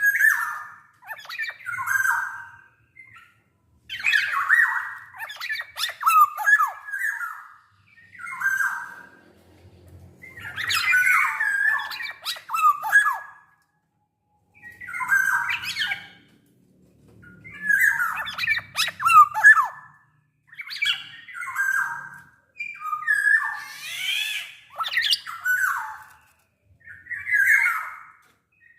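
Black-naped oriole (kepodang) singing: about ten short phrases of loud sliding whistled notes mixed with rougher notes, one every two to three seconds with brief pauses between.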